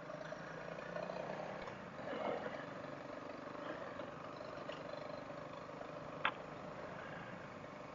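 Faint, steady running of a Honda CRF dual-sport motorcycle's single-cylinder engine while riding a trail, with a single sharp click about six seconds in.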